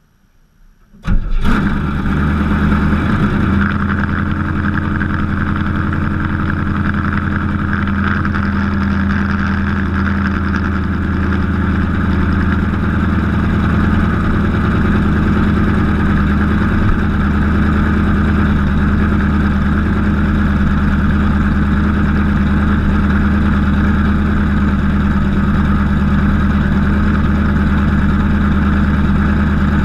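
Freshly rebuilt Oldsmobile 455 big-block V8 firing up for the first time about a second in, with no exhaust system fitted, then settling into a loud, steady idle.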